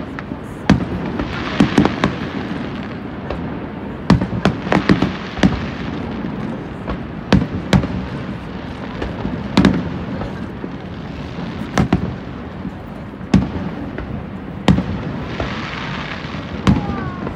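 Fireworks bursting: sharp, irregularly spaced bangs about once a second, with spells of crackling near the start and again near the end, over steady background noise.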